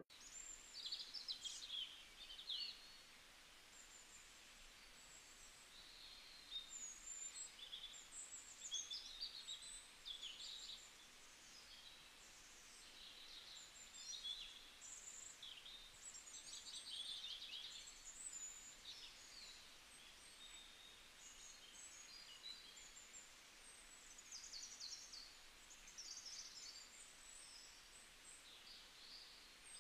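Faint birdsong: scattered short, high chirps and twitters over a soft background hiss.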